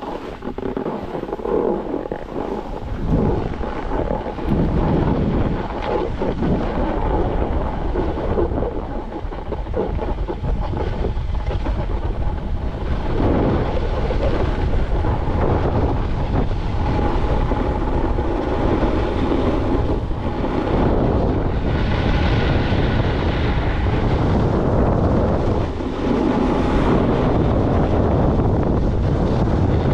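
Heavy wind buffeting the microphone with a rushing noise that swells and drops, over a faint steady whine.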